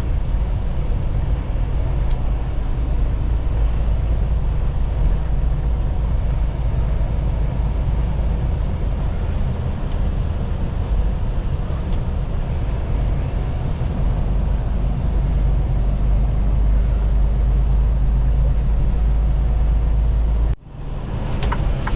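Semi-truck cab at highway speed: a steady low engine drone with road and tyre noise. It drops out abruptly for a moment near the end, followed by a few sharp ticks.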